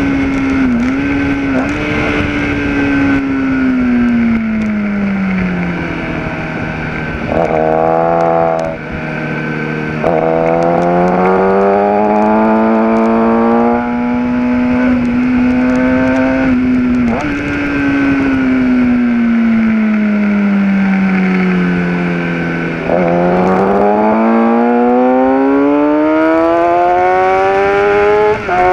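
Onboard sound of a Kawasaki ZX-10R sportbike's inline-four engine at track pace. The engine note sinks for several seconds as the bike slows and climbs again under acceleration, twice over, with brief dips in pitch and level at the gear changes.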